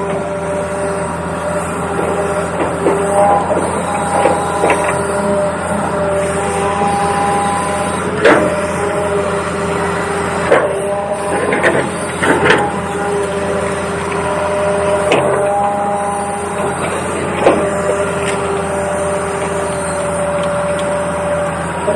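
Toy RC excavator's small electric motors and gearboxes whining at a few steady pitches that switch on and off as functions are worked, with scattered sharp clicks and knocks.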